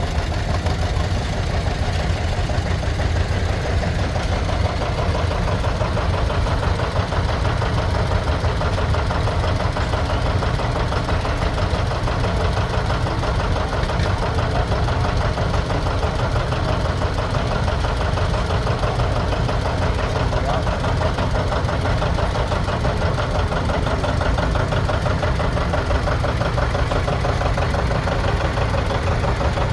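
An engine running steadily at constant speed, with a fast, even pulsing and no change in pace.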